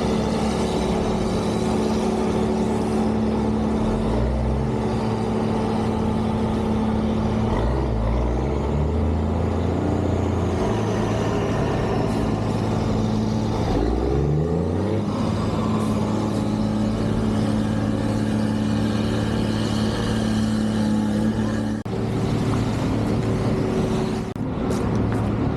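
Heavy engines of snow-removal vehicles running continuously, their engine speed shifting down and up several times, with a rise in pitch about halfway through.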